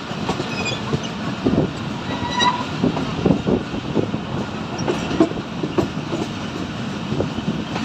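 Railcar running along the track, heard from on board: a steady rumble with irregular clatter and knocks of the wheels over the rails.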